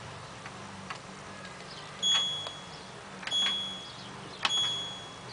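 LG washing machine control panel beeping as its settings are changed: three short high-pitched beeps about a second apart, each starting with a click, after a couple of faint clicks.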